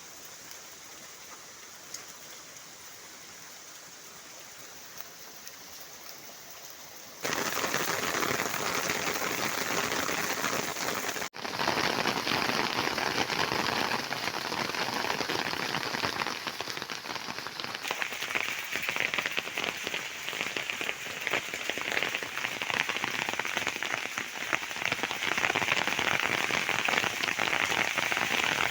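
A hail shower falling: a dense, steady patter and crackle of hailstones striking surfaces. It is fainter at first, becomes much louder about seven seconds in, breaks off for an instant about eleven seconds in, then continues as a thick crackling that grows stronger.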